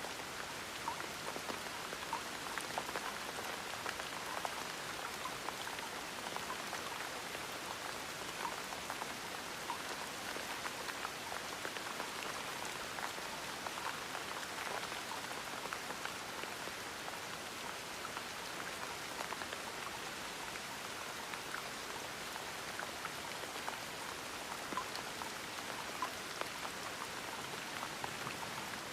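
Gentle steady rain, a soft even hiss with many small drops pattering on a surface.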